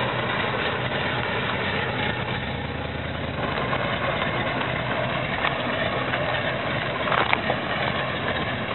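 Classic Chevrolet Nova's engine running steadily at low revs as the car rolls slowly, with a couple of light clicks about seven seconds in.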